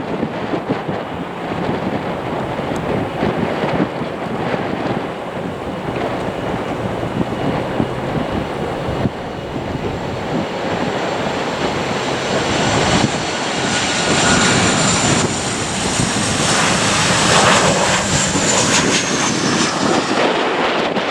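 Boeing 737-700 jet engines on landing approach, growing louder as the airliner nears. A high whine rises in level, then falls in pitch near the end as the plane passes.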